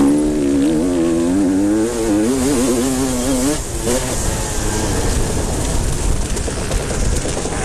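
Motocross motorcycles racing: one bike's engine is loud and close for the first few seconds, its note wavering as the throttle is worked, then fades into the running of other bikes on the track.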